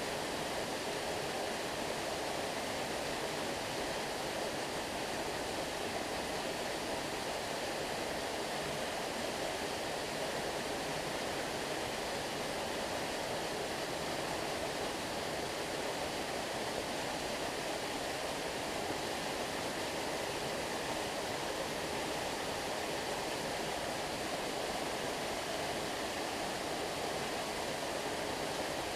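Running water of a stream: a steady, even rush with no separate splashes or other sounds standing out.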